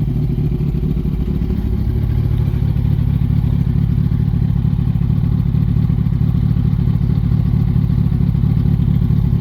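2006 Yamaha R1's inline-four engine running steadily near idle, rising slightly in pitch about one to two seconds in.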